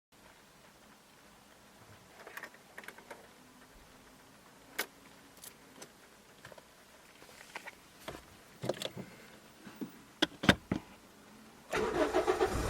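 Scattered light clicks and knocks, like keys and switches being handled, then about a second before the end a small Toyota car engine is cranked by its starter and catches.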